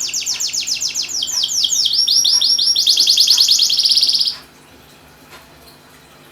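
Domestic canary singing in rapid trills: each phrase repeats one short high note many times a second before switching to another. The song breaks off about four seconds in.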